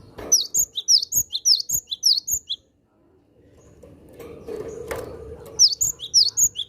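Cinereous tit (gelatik batu) singing: two bursts of rapid, sharp, high down-slurred notes at about five a second, the second bout starting a little past halfway.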